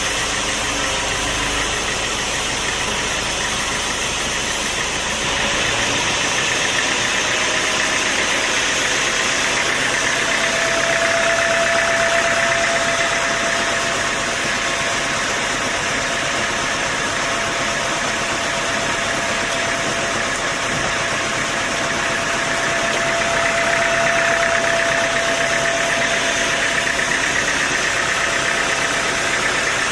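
Sawmill machinery running steadily, an engine-like drone with a high whine that swells twice. A low rumble drops away about five seconds in.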